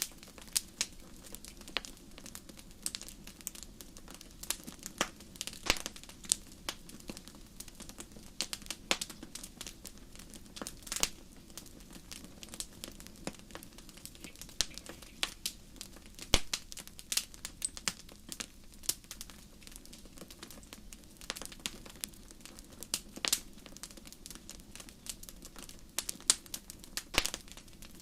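Wood campfire crackling: irregular sharp pops and snaps, some much louder than others, over a steady low hum.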